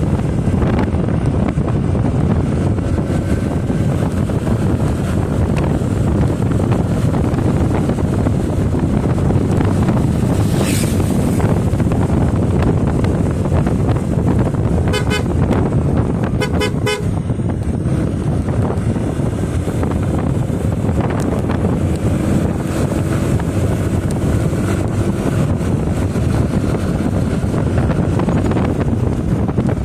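Steady wind buffeting and road noise of a motorcycle ride. About halfway through, a vehicle horn beeps twice in quick succession.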